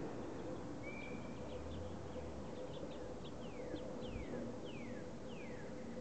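A wild bird whistling: one held note about a second in, then a quick run of about five clear down-slurred whistles in the second half, over a faint steady hum.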